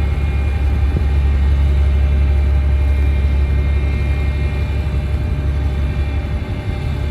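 Komatsu D58P bulldozer's diesel engine running steadily with a deep low drone, a faint steady high whine above it.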